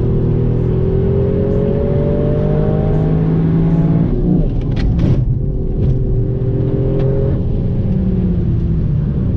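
Toyota Yaris engine under hard acceleration, heard from inside the cabin: the revs climb for about four seconds, drop at an upshift with a couple of sharp clicks, then climb again and ease off near the end.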